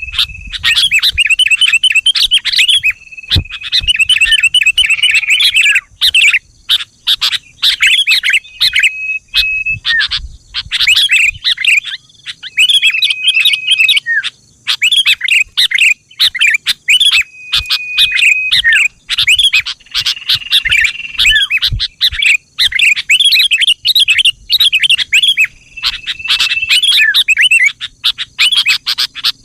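Sooty-headed bulbul (kutilang) singing: quick, bubbly chirping phrases with a few short held whistled notes, repeating with brief pauses between them.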